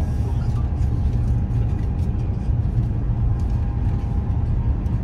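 Steady low rumble of a high-speed train running at speed, heard inside the passenger car, with a faint steady whine above it.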